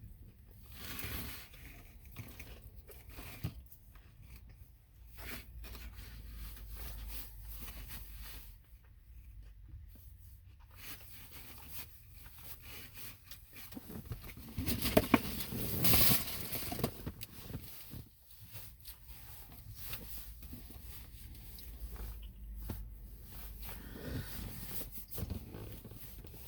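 Chewing and crunching on a crispy fried chicken sandwich, close to the microphone: irregular crunches and mouth sounds, loudest about halfway through. The breading is really crunchy.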